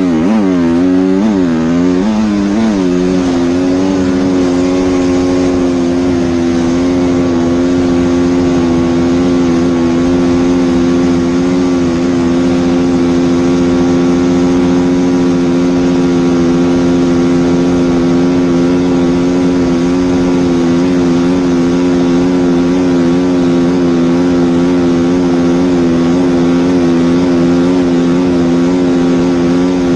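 An engine revved in a few quick blips over the first three seconds, then held at a steady high speed with an even, unchanging note.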